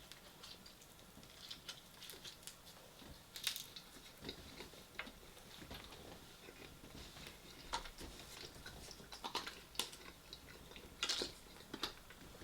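Close-miked eating: faint, scattered clicks and crunches of chewing and biting, with a couple of louder crunches about three and a half seconds in and near the end.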